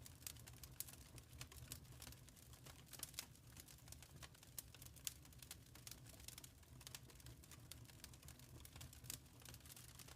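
Wood fire crackling in a fireplace, quiet, with frequent irregular pops and snaps over a steady low rumble.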